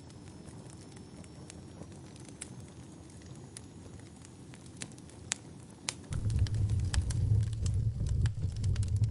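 Wood fire crackling, with scattered sharp pops and snaps. About six seconds in, a loud low rumble sets in and stays under the crackling.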